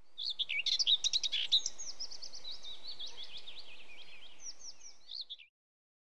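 Birds chirping and singing in quick, high, repeated notes over a faint outdoor hiss, fading and stopping about five seconds in.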